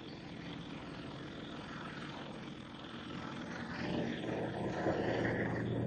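An engine's steady drone with a low hum, growing louder over the last two seconds.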